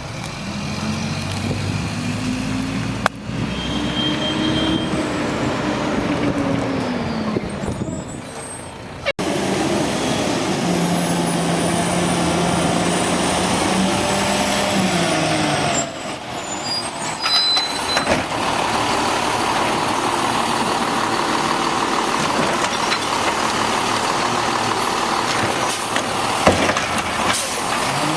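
Automated side-load garbage truck engines running and revving, the pitch rising and falling and then holding steady as the trucks work. The sound changes abruptly several times as it cuts between different trucks.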